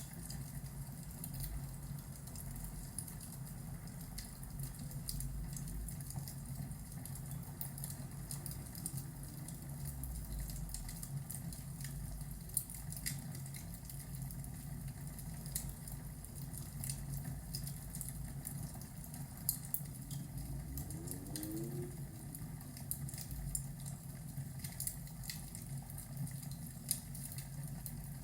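Fireplace ambience: a fire crackling with irregular sharp pops over a steady low rumble.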